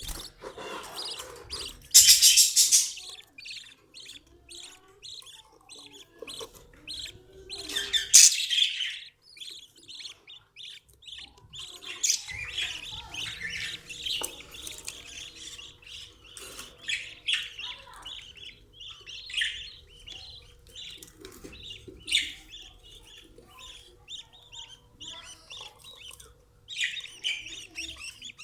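Caged budgerigars chattering and chirping continuously, with two louder bursts of sound, one about two seconds in and one about eight seconds in.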